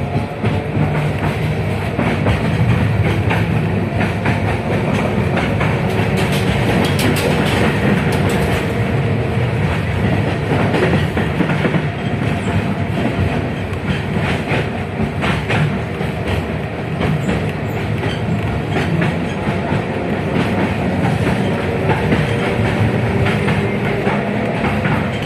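71-619KT tram car running along the rails: a steady rumble of wheels on track with frequent clicks over rail joints, and a faint whine underneath.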